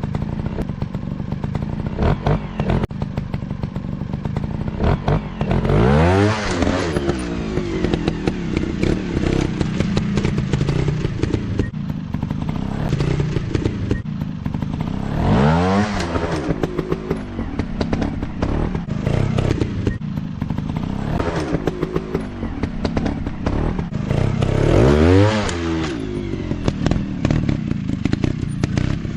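Motocross dirt bike engines running and revving, the pitch swinging up and back down three times, with rattly clatter and crackle throughout.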